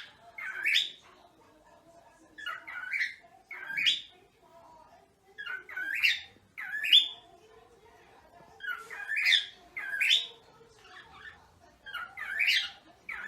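Cockatiel calling: short, high calls that rise in pitch, coming in clusters of two or three about every three seconds.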